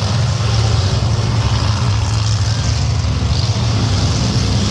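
Monster truck engine running steadily with a loud, deep rumble.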